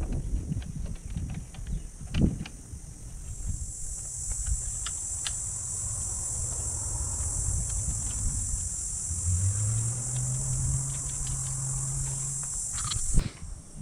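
Insects droning outdoors: a high, steady buzz that swells about three seconds in and stops abruptly near the end. Scattered light clicks and knocks sound over it, and a low hum comes in for a few seconds near the end.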